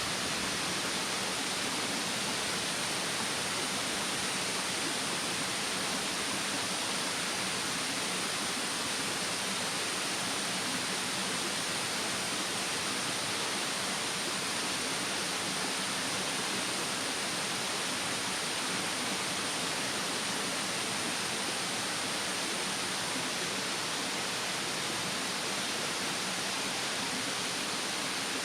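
Mountain stream running with a steady, even rushing of water and no breaks.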